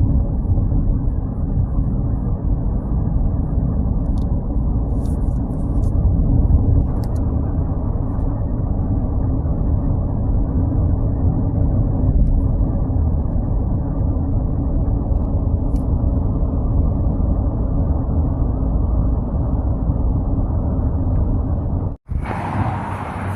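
A steady low rumble outdoors. It cuts off abruptly near the end and comes back as a brighter hiss.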